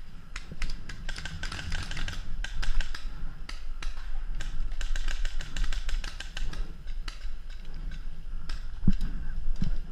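Paintball markers firing: many sharp pops, some single and two dense rapid runs, about a second in and again around the middle.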